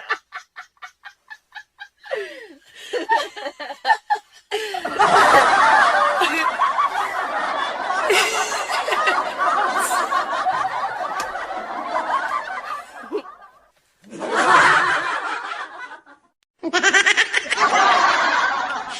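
People laughing in several bouts: a quick rhythmic run of laughs at first, then a long dense stretch of laughter, then two shorter bursts near the end.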